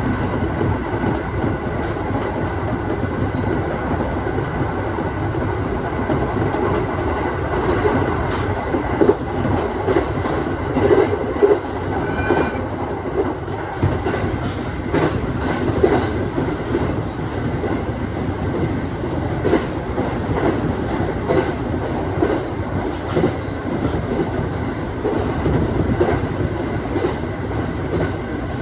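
Aoimori Railway 701 series electric train running along the line, heard from the front of the train: steady running noise with a faint steady whine and scattered clacks of the wheels over rail joints.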